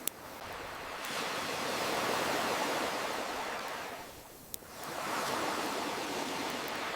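Ocean waves washing in, the surf noise swelling and ebbing in two slow surges, with a campfire crackling: two sharp pops, one at the start and one about four and a half seconds in.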